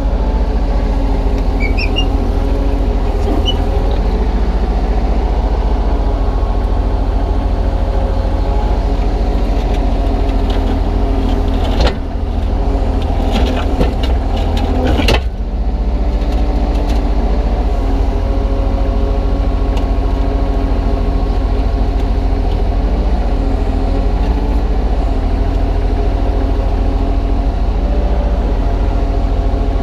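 Kubota U35-3 mini excavator's diesel engine running steadily while it digs and loads soil, with a short cluster of knocks and rattles about twelve seconds in.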